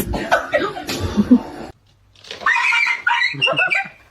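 A person chuckling, then after a short break a louder, high wavering cry lasting about a second and a half.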